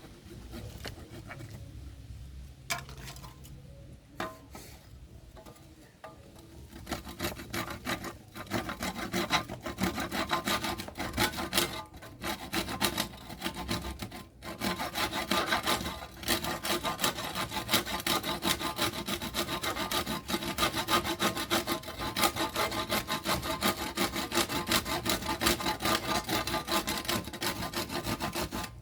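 A hand tool rubbing back and forth over a workpiece in quick, repeated scraping strokes. The strokes are sparse and faint at first, then become steady and louder about seven seconds in.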